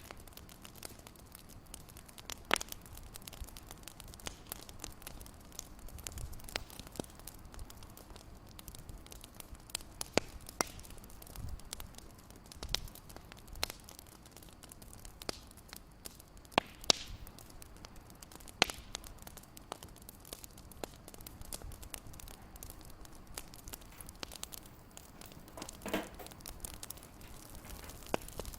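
Wood fire crackling in a fireplace: irregular sharp pops and snaps over a soft steady hiss, with a fuller pop near the end.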